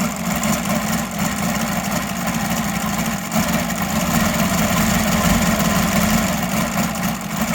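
UMS 7-90 seven-cylinder radial gas engine running steadily at a low idle. The idle is set low enough that the owner would raise it a little to guard against dead sticks.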